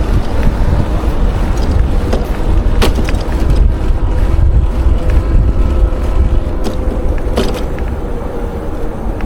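Wind buffeting the microphone of a moving bicycle rider, over city traffic noise, with a couple of sharp clicks or rattles, one about three seconds in and another past seven seconds.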